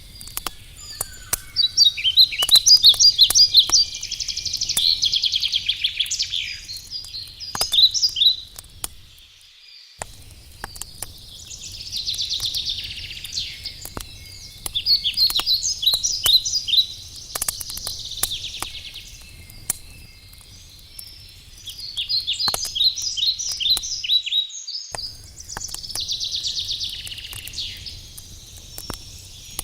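Songbirds singing in repeated phrases every few seconds, over scattered sharp crackles and pops of a wood campfire.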